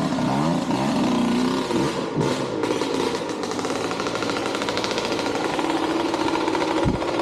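Dirt bike engine revving, its pitch rising and falling over the first couple of seconds, then running on in a steady, rapid beat.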